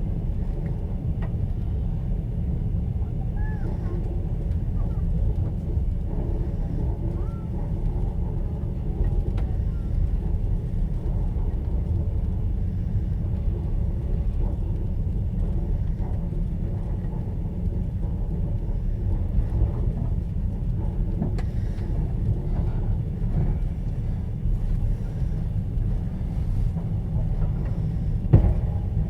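Steady low rumble of a moving passenger train heard from inside an open sleeper carriage: wheels running on the rails and the carriage body shaking. Faint short squeaks come now and then, and a single sharp knock sounds near the end.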